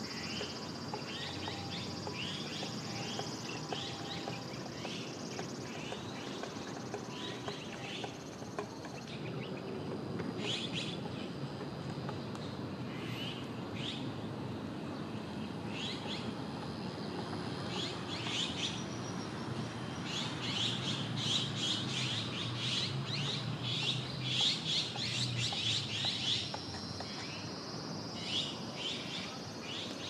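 Small birds chirping in short, repeated notes, busiest and loudest in the second half, over a steady high-pitched drone that fades out about a third of the way in and returns near the end.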